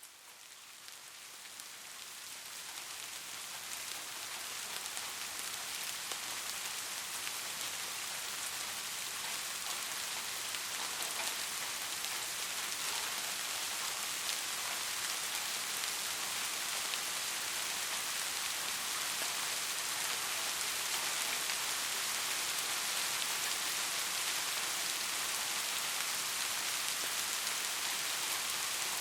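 Steady rain falling, a dense, even patter of drops. It fades in over the first few seconds, then holds steady.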